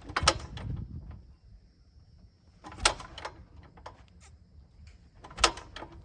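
Piper J-3 Cub's propeller being pulled through by hand, giving a sharp mechanical clack about every two and a half seconds, three times. The engine does not catch: its fuel has been turned off.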